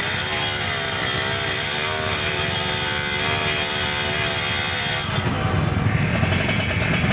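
Two-stroke 150cc motorcycle engines racing, a buzzing note that dips and rises in pitch with the throttle. The sound changes abruptly about five seconds in.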